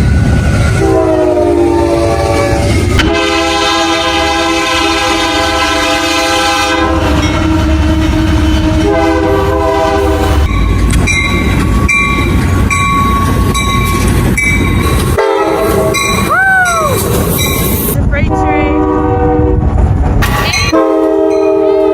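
Locomotive air horns blowing in a string of long blasts, each a chord of several tones, over the rumble of passing trains and wheels on the rails. The sound cuts abruptly several times, from one train to the next.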